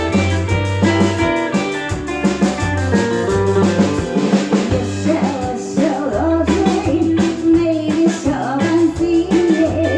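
A band playing: guitar and drums over a steady bass line, with singing.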